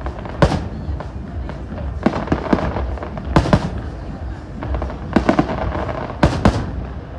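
Fireworks bursting in a series of sharp bangs at irregular intervals, several coming in quick pairs or threes.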